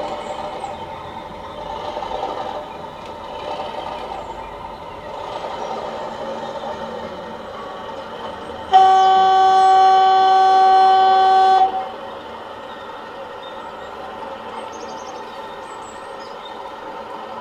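Sound decoder of an Accurascale OO-gauge Class 37 model locomotive playing its English Electric diesel engine sound through the model's small speaker, rising and falling a little. About nine seconds in comes one loud, steady horn blast lasting about three seconds.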